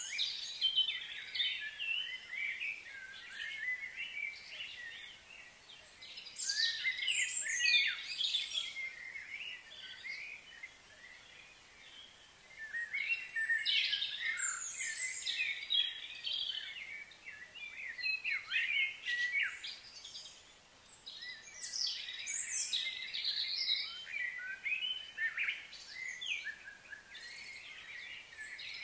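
Wild birds chirping and singing: many short, quick, overlapping calls that come in waves.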